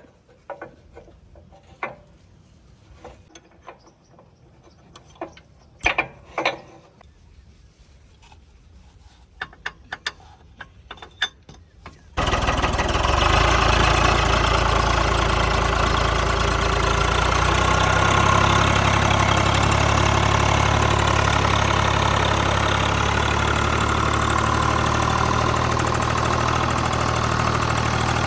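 A few faint clicks and knocks, then about twelve seconds in a tractor's diesel engine comes in suddenly, running loud and steady.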